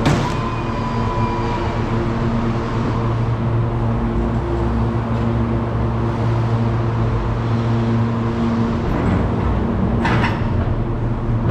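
A truck's diesel engine running steadily at an even pitch, with a clunk at the start and a short clatter about ten seconds in.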